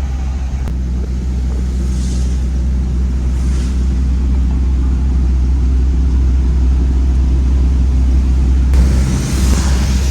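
Suzuki pickup driving at steady speed: a constant low engine hum and road rumble. Brief hissing swells come twice early on and a stronger one near the end.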